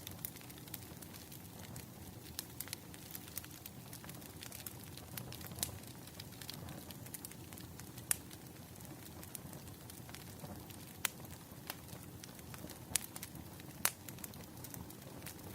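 Wood fire crackling: burning logs give a steady low rush with irregular sharp pops and snaps, the loudest a few at about eight, eleven and thirteen to fourteen seconds in.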